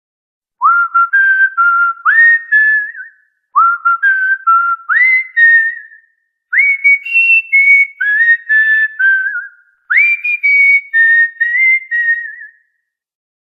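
Cockatiel whistling a learned tune: four short phrases of clear, pure notes, each opening with a quick upward swoop into a few held notes. The last two phrases pitch higher than the first two.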